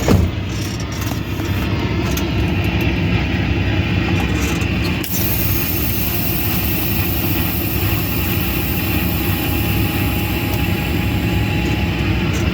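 Semi-truck diesel engine running steadily as the truck pulls forward out of the fuel lane after fueling, with a sharp click about five seconds in.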